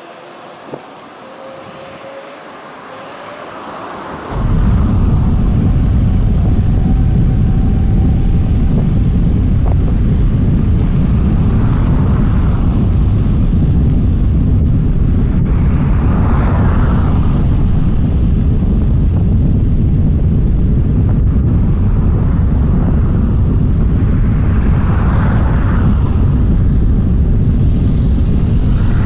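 Airbus A330-900neo's Rolls-Royce Trent 7000 turbofans spooling up with a faint rising whine. About four seconds in they break into a sudden, loud, steady low rumble of takeoff thrust.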